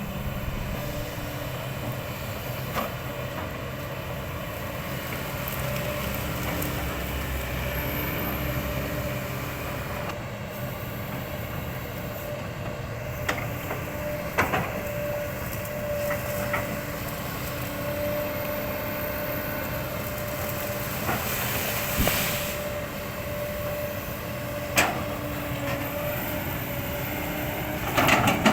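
Kobelco hydraulic excavator running under work, a steady engine rumble with a held hydraulic whine, and now and then a sharp knock or crack as the bucket chops up old oil palm trunks.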